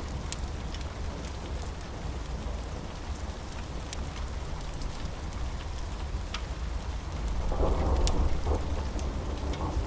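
Steady rain with a continuous low thunder rumble and scattered sharp ticks. The rain swells louder about three-quarters of the way through.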